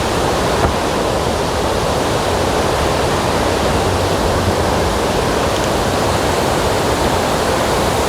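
Rain-swollen waterfall rushing over rocks: a loud, steady roar of white water.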